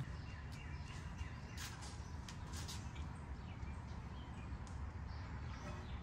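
Faint bird chirps over a steady low rumble of background noise, with a few light clicks.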